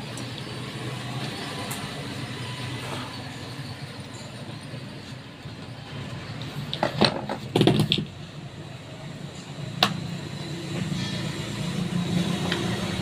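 Steady background rumble with a cluster of sharp knocks about seven to eight seconds in and a single sharp click a couple of seconds later.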